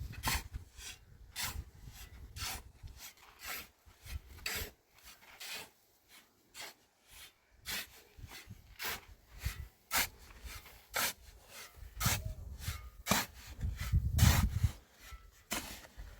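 Repeated scraping strokes of a hand tool working rough material, coming irregularly about once a second, with a few heavier strokes near the end.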